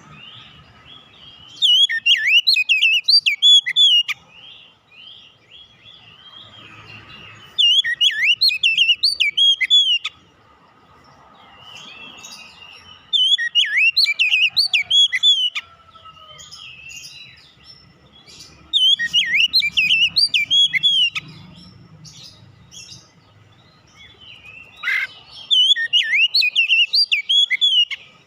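Oriental magpie-robin (kacer) singing: five loud bursts of rapid, varied whistled phrases, each two to three seconds long, with softer twittering between them.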